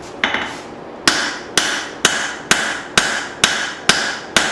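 Peen hammer striking hot leaf-spring steel on an anvil while drawing out a hatchet blade: a couple of lighter blows, then from about a second in steady blows about two a second, each with a short metallic ring.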